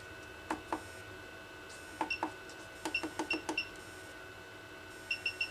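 Clicking button presses on a Pro'sKit SS-331 desoldering station's control panel, each answered by a short high beep, as the temperature setting is stepped. There are a few bare clicks in the first couple of seconds, a quick run of click-and-beep presses around the middle, and three rapid beeps near the end.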